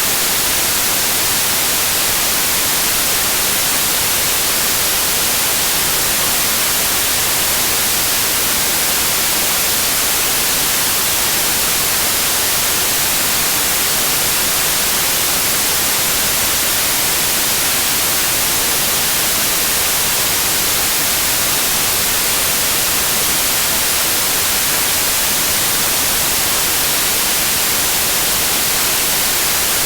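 Synthetic white noise: a steady, unchanging hiss, brightest in the high frequencies, with no breaks or events.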